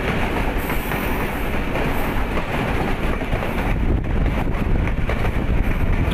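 Passenger train running along the track, heard from on board: a steady rumble with the wheels rattling over the rails.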